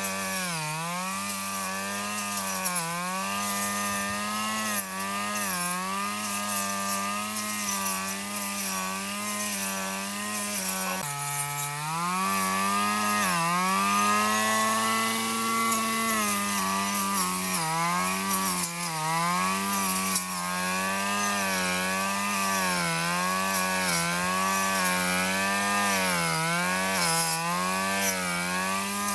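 Small lawn mower engine running steadily, its pitch sagging briefly and recovering every second or so, with a deeper dip about eleven seconds in.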